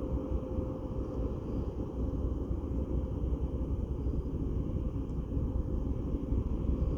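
The ferry Taiko's engines running with a steady low rumble and a faint steady hum as the ship comes into port.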